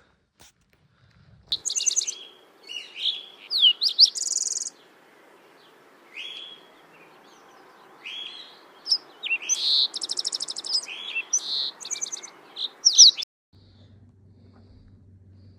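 Songbirds singing: a run of high chirps, rapid trills and down-slurred notes, overlapping, which cuts off abruptly near the end and gives way to a faint, steady low hum.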